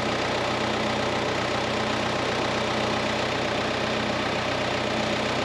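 Tractor engine idling steadily with its air conditioner running on high.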